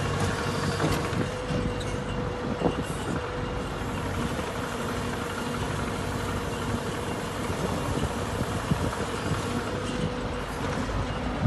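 Engine running steadily at idle, a low even hum with a faint steady whine over it.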